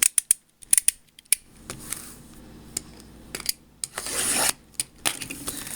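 A quick run of sharp clicks in the first second or so, then rasping scrapes of a box cutter slicing through the plastic shrink-wrap and seal of a trading-card box, strongest about four seconds in.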